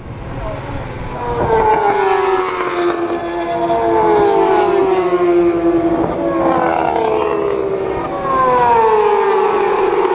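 Supersport racing motorcycles with four-cylinder engines at high revs, passing one after another. Each high-pitched engine note falls in pitch as the bike goes by, with the notes of several bikes overlapping.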